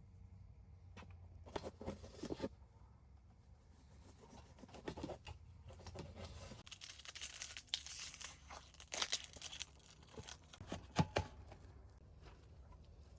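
Close handling noises: crinkling and tearing, like packaging being opened, with scattered light knocks and clicks. The rustling is busiest and loudest in the middle.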